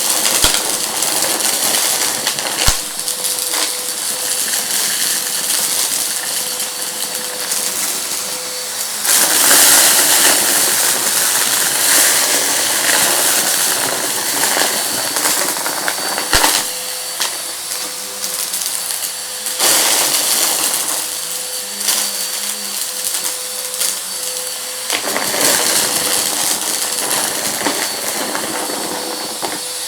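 Vacuum cleaner running on a rug with a steady motor hum, picking up crunchy debris that crackles and clicks through the machine. The suction noise swells louder and brighter in stretches, about a third of the way in and again near the end.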